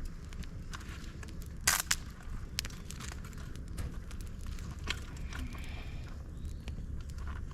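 Dry bamboo, twigs and leaves burning in a campfire stand, crackling with scattered sharp pops. The loudest is a sharp double crack about two seconds in, over a steady low rumble.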